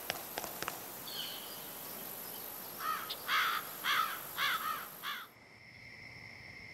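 Small songbird chirping: a short call about a second in, then five quick rising-and-falling chirps. Just after, the background cuts suddenly to a steady cricket trill, and the first half second holds a few light footstep clicks.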